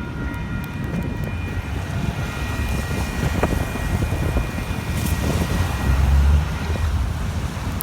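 Union Pacific manifest freight train rolling past: a steady low rumble with a few steady high-pitched tones over it, swelling louder about six seconds in.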